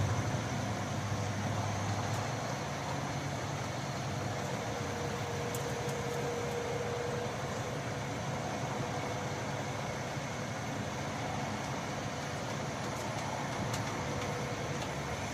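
Heavy truck engine idling steadily. A deeper, louder engine note drops away about two seconds in.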